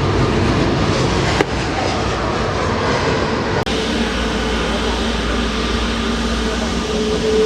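Jet airliner engines running with a steady rumble and a held whine, broken by two abrupt cuts, about one and a half and three and a half seconds in.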